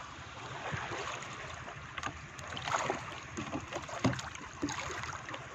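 Steady rush of water and wind around a small speedboat, with scattered small splashes and knocks against the hull.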